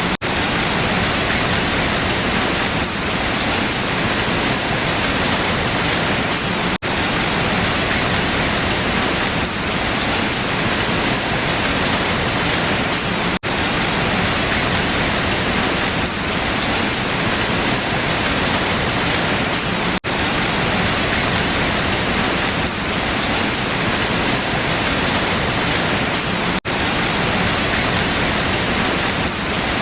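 Steady heavy rain falling on leaves, an even hiss with no distinct drops standing out. A very short dropout breaks it about every six or seven seconds.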